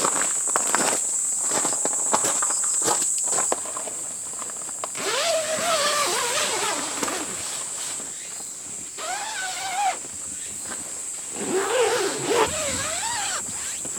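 Steady high-pitched insect chirring with footsteps for the first few seconds, then three short wavering, whine-like calls spread through the rest.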